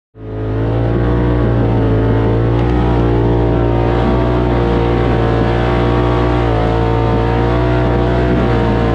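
Side-by-side UTV engine running at a steady speed with an even drone, easing off right at the end.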